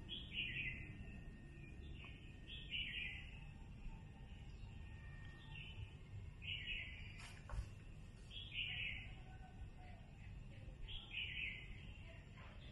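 A bird calling over and over: five short calls, each falling in pitch, spaced two to four seconds apart, over a low steady background rumble.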